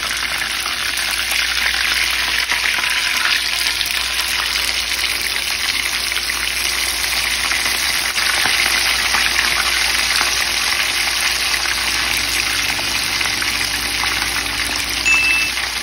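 A bone-in pork chop shallow-frying in hot canola oil, just turned over: steady, dense sizzling with many small pops. A short high beep sounds near the end.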